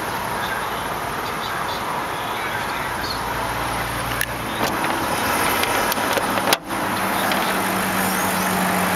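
BMW 745i's 4.4-litre V8 idling steadily, very quiet, with a few light clicks about four seconds in and a brief break in the sound a little later.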